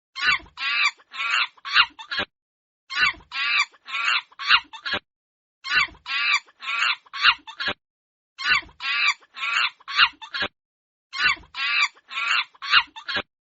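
Chicken clucking in five bursts of five or six quick clucks, each burst about two seconds long and followed by a short complete silence, the same pattern repeating about every two and a half to three seconds.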